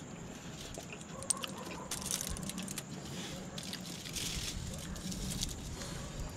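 Eating sounds: irregular crunching and rustling with scattered small clicks, two louder hissy rustles about two and four seconds in.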